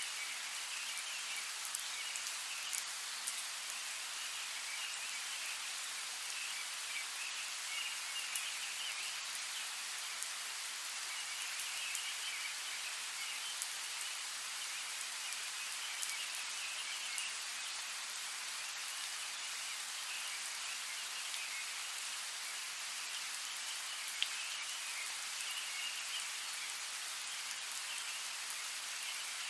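Steady rain falling: a continuous even hiss with scattered sharp ticks of individual drops.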